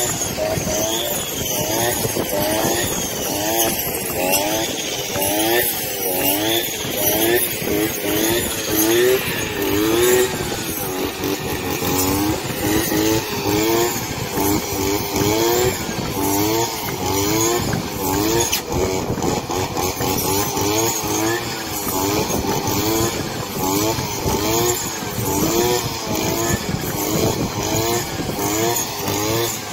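Homemade tractor's engine running continuously, its pitch repeatedly wavering up and down a little.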